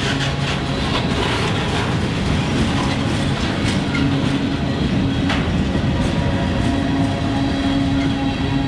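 Freight cars rolling past on steel wheels: a steady rumble and rattle of wheels on rail, with a few sharp clacks over the rail joints.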